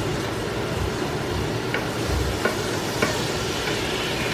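Onions and mushrooms sizzling in butter in a frying pan while being stirred, with a few light knocks of the stirring utensil against the pan.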